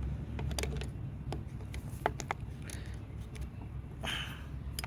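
Light, irregular clicks and taps of a tool and metal parts being handled while loosening a tight bolt on a lawn mower, over a low steady hum.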